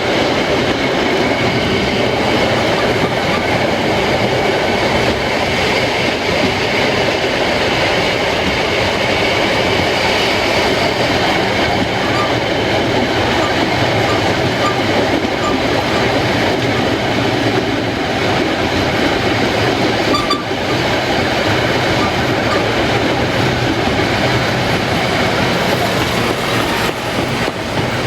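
Narrow-gauge train running on the track: a steady, loud rolling rattle of wheels on rails.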